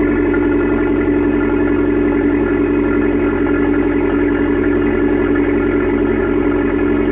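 Abarth 595 Turismo's turbocharged 1.4-litre four-cylinder engine idling steadily through its exhaust, with an even note that holds the same pitch throughout.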